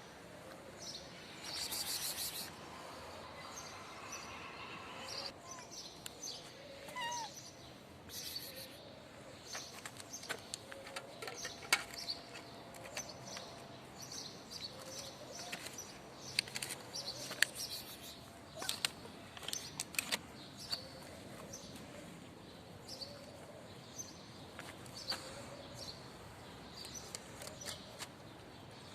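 Kitten meowing over and over, short calls coming about once a second, with scattered clicks and rustles around it.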